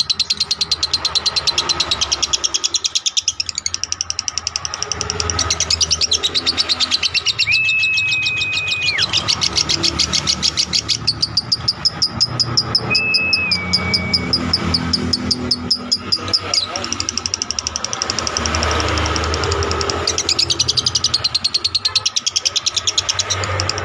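Lovebird giving its long 'ngekek' call: a fast, unbroken chatter of sharp high notes, many to the second, that runs on without a pause. A few short, steady whistled notes stand out twice in the middle.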